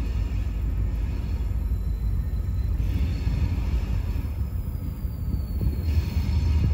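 Freight train rumbling at a distance as it slowly approaches down the track, with a faint high squeal sliding down in pitch about four seconds in.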